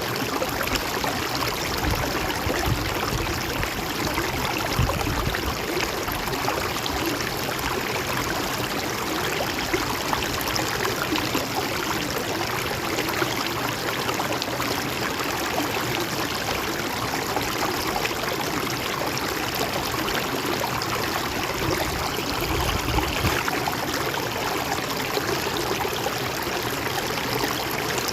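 River water flowing in a steady, even rush, with a few brief deeper low rumbles in places.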